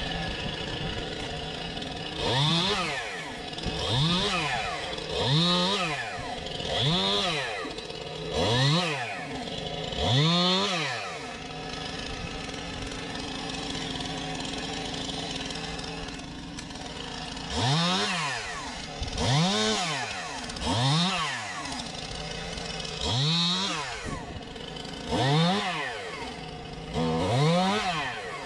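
Two-stroke chainsaw idling and revved up and back down again and again, about once every second and a half. It comes in two runs of about six revs, with steady idling between them.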